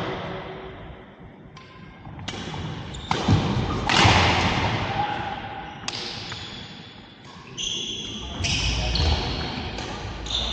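Badminton rally: sharp racket hits on the shuttlecock, about one a second, each ringing in a large hall. In the last few seconds come high squeaks of court shoes on the floor.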